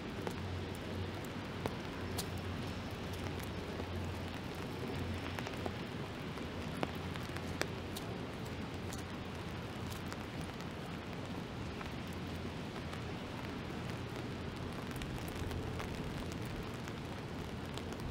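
Steady rain hiss with a scattering of sharp ticks and a low, steady rumble underneath.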